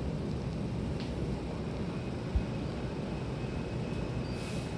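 Hankyu Kobe Line train cabin rumble as the train pulls into the station. There is a single thump about halfway through, a faint high squeal from then on, and a brief hiss near the end.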